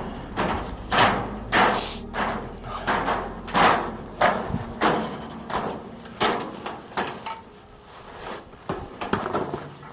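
A hiker's footsteps crunching in snow, a regular step about every two-thirds of a second.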